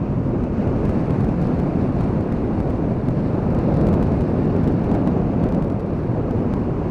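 Gale-force wind rushing and buffeting over the microphone of a moving motorcycle, a steady dense rumble, with the bike and road noise underneath.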